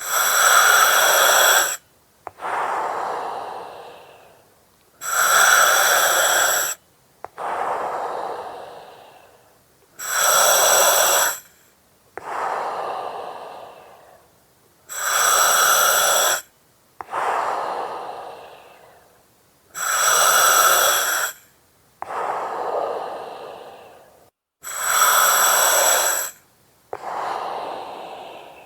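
Slow, regular breathing through an oxygen mask with a regulator hissing. There are about six breaths, one every five seconds. Each is a loud, hissing inhale through the mask, then a short click, then a longer exhale that fades away.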